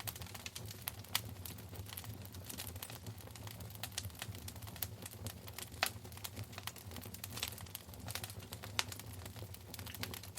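Wood fire crackling in a fireplace: dense, irregular small snaps, with a few sharper pops about a second in, near the middle, and near the end, over a low steady hum.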